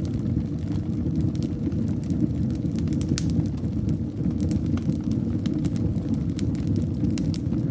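Fire burning in a fireplace: a steady low rumble of flames with irregular sharp crackles and pops, a few each second.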